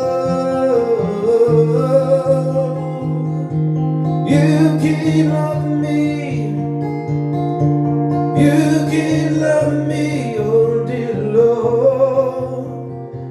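Music: a voice singing a wordless melody over acoustic guitar accompaniment with a steady beat.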